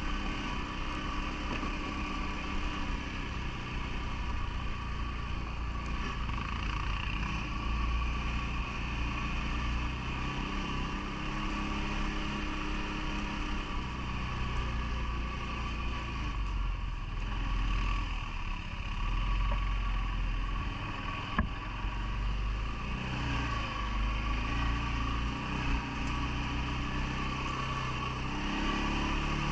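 CFMoto ATV engine running under way, its pitch rising and falling with the throttle over a low rumble. There is one brief sharp knock about two-thirds of the way through.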